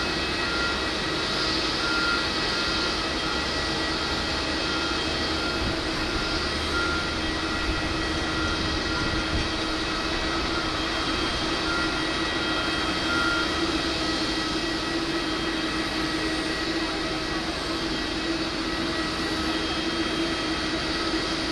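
Jet airliner turbine sound from a Boeing 787-9 during pushback: a steady whine of several fixed tones over an even rumble, unchanging throughout.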